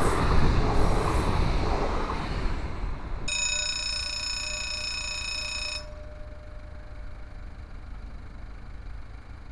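Double-deck TER electric train rushing past over a level crossing, then, after a cut, a level crossing's electronic warning bell sounding one steady high tone for about two and a half seconds before stopping abruptly. A faint low rumble remains afterwards.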